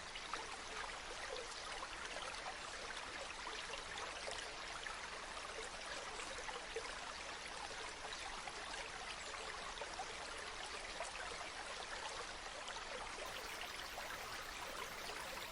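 Water flowing steadily, a constant rush full of small splashes, with no pauses.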